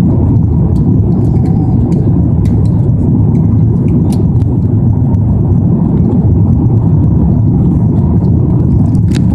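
Steady low rumble of cabin noise inside an Airbus A330 airliner during landing, engine and airflow noise heard from a passenger seat, with a few light clicks and a sharper tick near the end.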